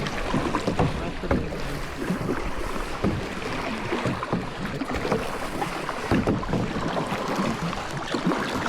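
Kayak paddles dipping and splashing in the water in irregular strokes, over a steady rushing noise.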